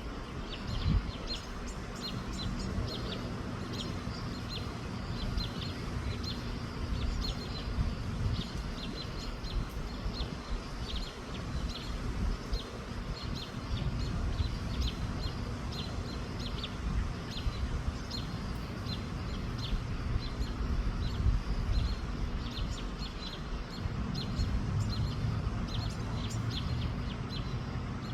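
Small birds chirping over and over, many short high chirps, under a loud low rumble of wind buffeting the microphone.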